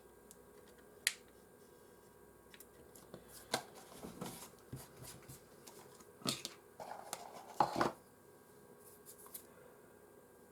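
Hands handling and moving small objects: scattered sharp clicks and rustling, busiest in two spells about three and a half and seven seconds in.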